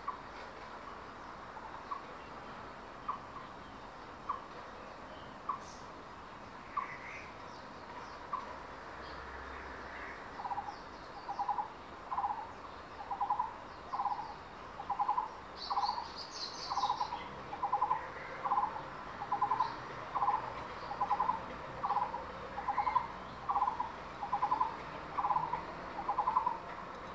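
A bird calling: first single short notes about once a second, then from about ten seconds in a long, even series of trilled notes, roughly one every 0.7 s. A brief higher chatter comes from another bird about sixteen seconds in.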